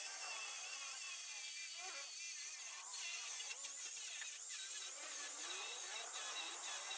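Angle grinder running high-pitched and cutting metal, its pitch wavering as the disc is worked along the cut.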